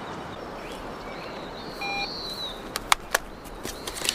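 Steady outdoor background hiss with a short bird call about two seconds in, followed by a few sharp clicks.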